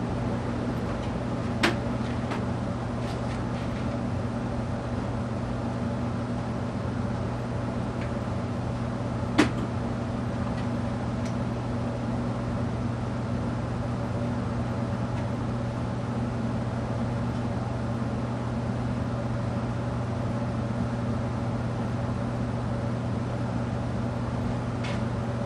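Vintage Evergo 48-inch spinner-style ceiling fan coasting down after being switched off from full speed, with a steady low hum throughout. A sharp click comes about two seconds in and a louder one about nine seconds in.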